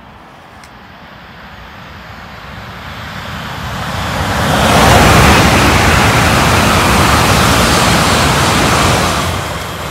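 Southeastern Class 395 'Javelin' electric multiple unit approaching and passing at speed: a rushing of wheels on rail and air that builds steadily, holds loudest for about four seconds as the train goes by, then begins to fade near the end.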